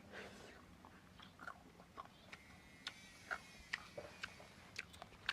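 Faint, irregular crunches and clicks of someone chewing grilled forest quail.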